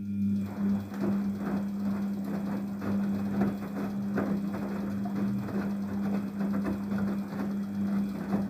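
Daewoo DWD-FT1013 washing machine running a burst of its hand-wash cycle: a steady motor hum with a busy rattle over it, which starts just before and cuts off near the end.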